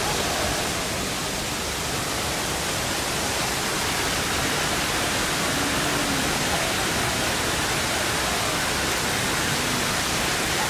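Steady rush of falling water, an even hiss that holds without a break.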